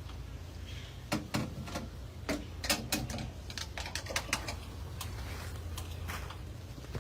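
A run of irregular sharp clicks and taps, thickest between about one and four and a half seconds in and thinning out after, over a steady low hum.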